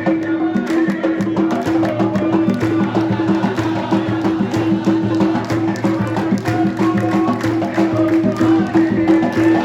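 Supporters' drums beating a fast, steady rhythm over a held droning tone, with some voices joining in near the end.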